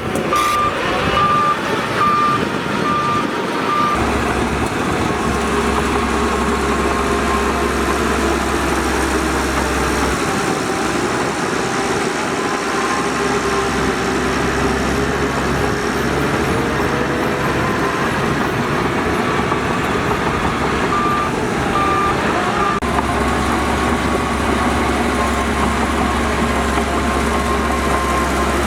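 Diesel engines of a bulldozer and dump trucks running under load, with a reversing alarm beeping steadily for the first few seconds and twice more a little past twenty seconds in.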